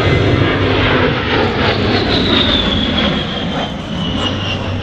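A-10 Thunderbolt II's twin turbofan engines in a loud pass, with a high whine that falls steadily in pitch over the last couple of seconds as the jet goes by.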